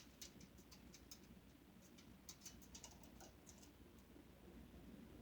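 Faint, irregular light ticks and patters of a white-bellied caique splashing about in a shallow water dish while bathing.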